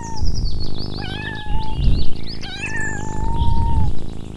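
Kitten meowing: high-pitched mews, a short one about a second in and a longer, drawn-out one from about two and a half seconds, after the end of one at the start.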